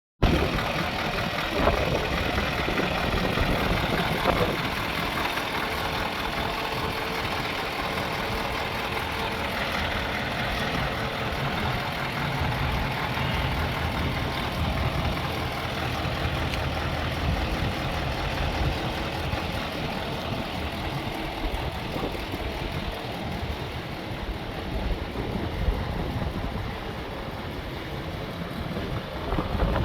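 Scania 144G 530's 14-litre V8 diesel engine idling steadily, with two short knocks about two and four seconds in.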